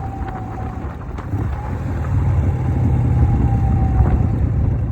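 1988 Harley-Davidson Softail's Evolution V-twin running on the road with wind noise, getting louder about two seconds in and easing off near the end.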